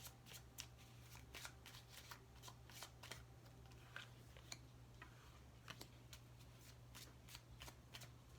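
Tarot cards being shuffled by hand: a quiet run of irregular soft card clicks and flicks, over a faint steady low hum.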